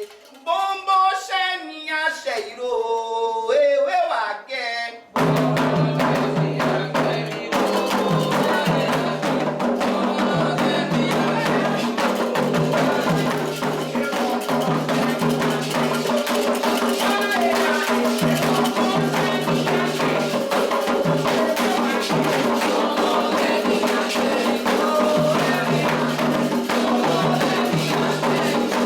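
A solo voice sings a Candomblé chant unaccompanied. About five seconds in, atabaque hand drums and other percussion come in all at once and keep a fast, steady rhythm, with singing carrying on over them.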